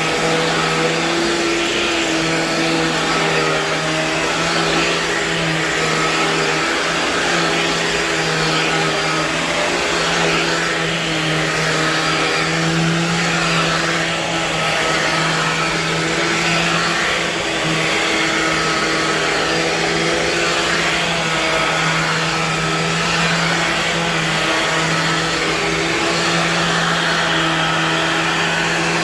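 2001 Dirt Devil Vision Lite vacuum cleaner running steadily while vacuuming: a constant motor hum over a rush of air, dipping slightly now and then.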